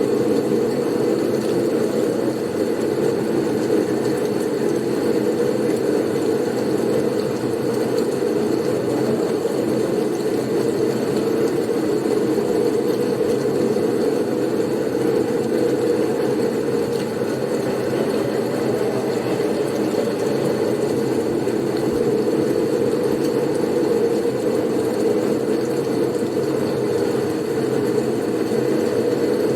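Blizzard wind sound: a steady, low rushing of wind with no gusts or breaks.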